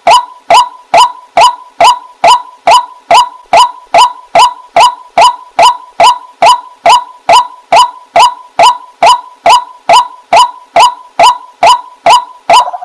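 Waterhen (jal murgi) calling: a loud, monotonous series of short nasal call notes repeated evenly at about two and a half a second.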